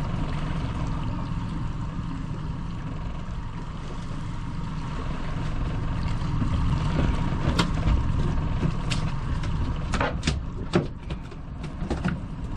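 Boat motor running steadily at trolling speed, with a scatter of sharp clicks and knocks in the second half.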